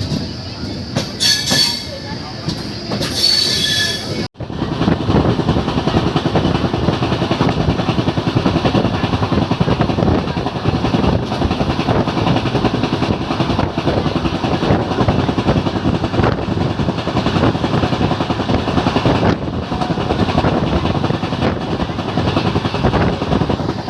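Train running on the rails: a few short high-pitched squeals in the first few seconds, then, after an abrupt cut, a loud steady rumble and clatter of the moving train.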